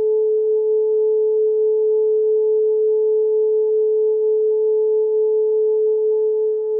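Steady electronic 432 Hz tone, held without a break or change in pitch, with a fainter overtone an octave higher.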